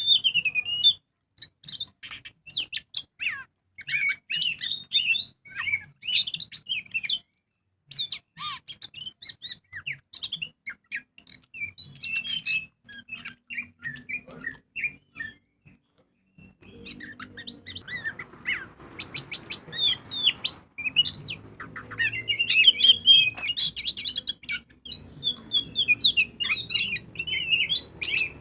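Oriental magpie-robin (kacer) singing in full voice: a rapid, varied run of whistles, trills and chattering phrases, with a brief pause about halfway through.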